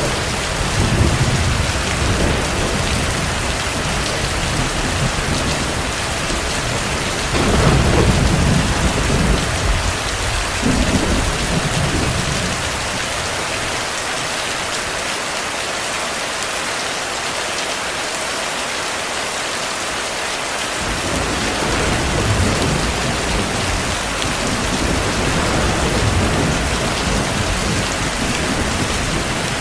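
Heavy rain falling steadily, with distant thunder rumbling under it. The thunder swells strongest about eight seconds in, dies away for several seconds mid-way, then rolls again softly later on.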